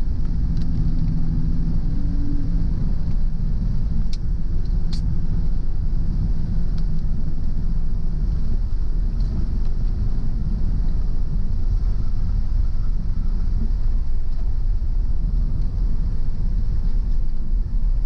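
Car driving along a road: a steady low rumble of road and engine noise, with a faint engine hum through the first half. Two sharp clicks come about four and five seconds in.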